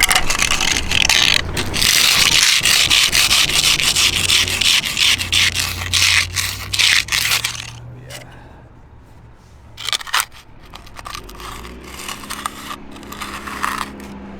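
A hand finishing tool scraping and rubbing over fresh, wet concrete in quick repeated strokes for about eight seconds, then only a few faint scrapes and knocks.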